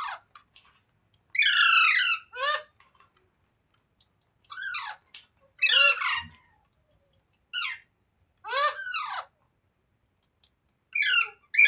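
Ringneck parrot (rose-ringed parakeet) giving about seven short, harsh calls with silent gaps between them, the longest about a second and a half in.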